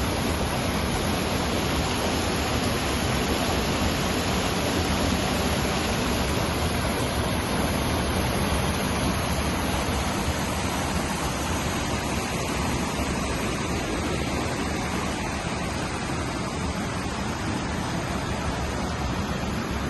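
Steady, even rushing noise outdoors with no distinct events.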